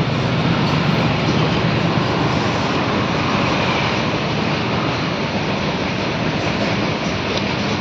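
Freight train of covered goods wagons rolling past, a loud, steady rumbling roar of wheels on rail.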